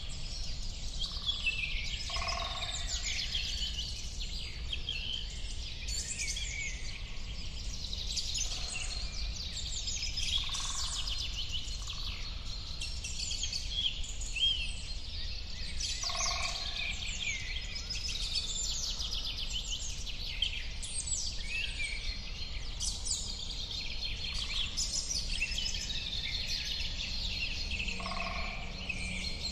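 A chorus of many birds singing and chirping together, with dense overlapping high trills and chirps and a few short lower-pitched calls now and then, over a steady low background noise.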